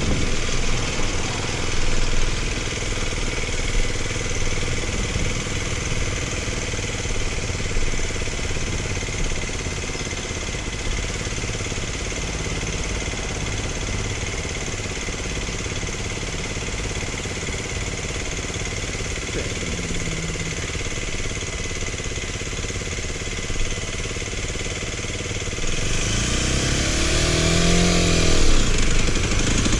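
Motorcycle engine running steadily, then rising and falling in pitch several times near the end as it is revved or accelerated.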